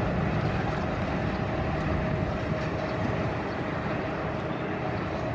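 Passenger train hauled by diesel locomotive 4113 running, a steady rumble, with a faint steady whine through the middle.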